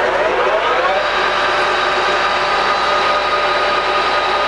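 Colchester Mascot 1600 centre lathe's geared headstock running up to about 666 rpm. The gear whine rises in pitch during the first second, then holds steady at speed.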